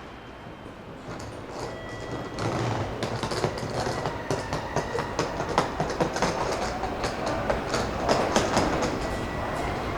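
Meitetsu μSKY electric train pulling into the platform. Its wheels clatter over the rail joints in quick clicks over a steady rumble, growing louder from about two and a half seconds in.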